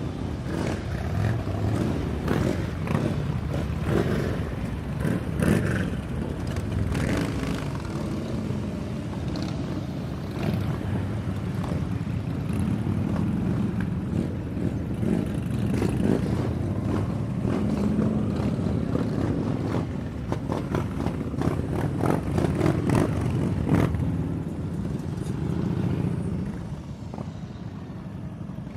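Several motorcycle engines running together, the sound easing off near the end.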